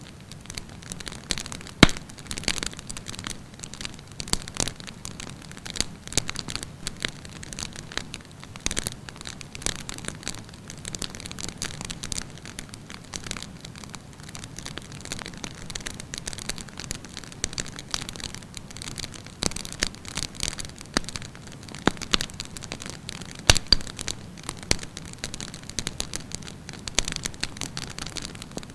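Wood campfire burning, with a steady hiss and frequent sharp crackles and pops; the loudest pops come about two seconds in and again near the end.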